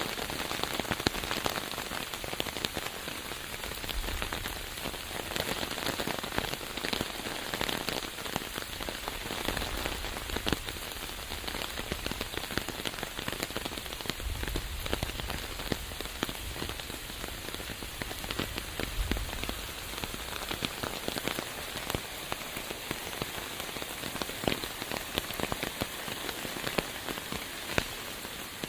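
Steady rain falling, a dense patter of many close drops hitting surfaces. A low rumble swells and fades a few times underneath.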